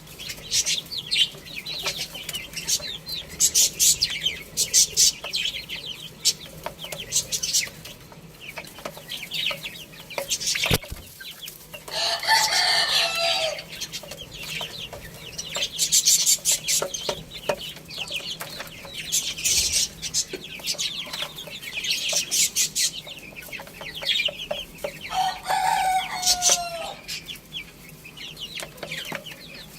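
Rooster crowing twice, once about twelve seconds in and again near the end, over steady clucking and a constant chatter of short high chirps from the birds.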